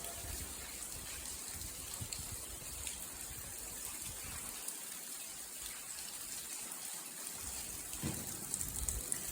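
Water running and trickling into an old brick railway tunnel through its brickwork, a steady splashing hiss. A few low thumps come near the end.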